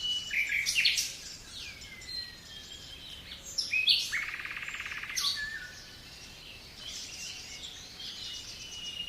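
Small songbirds calling and singing: several short chirps and whistled notes, with a rapid trill a little after four seconds in, over a faint steady background hiss.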